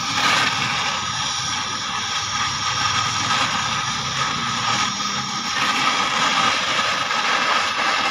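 Oxy-acetylene welding torch flame hissing steadily.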